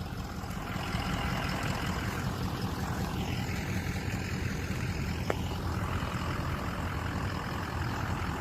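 A truck's engine running steadily with a low rumble, and one short click about five seconds in.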